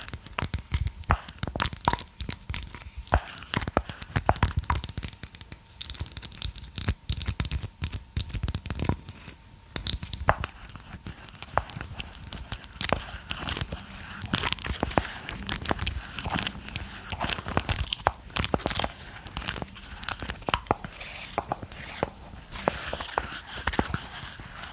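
Close-miked handling sounds: dense, irregular clicks and crinkles, with tearing noises, from the massage roller and ball and their packaging being worked with the fingers.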